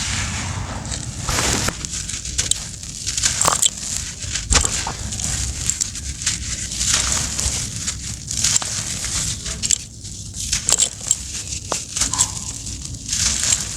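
Dry, crumbly lumps being crushed and broken apart in a continuous gritty crackle, thick with small sharp cracks.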